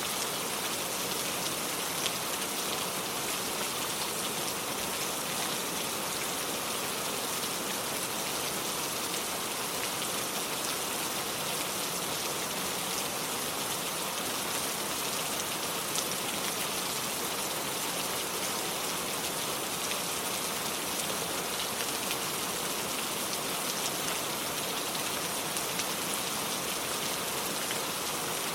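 Steady rain falling and pattering on surfaces, with an occasional louder single drop.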